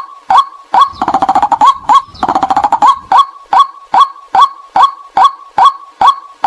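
White-breasted waterhen calls played as a lure: a steady series of short, loud kwak notes, about two to three a second. From about one to three seconds in they are broken by two rapid chattering runs.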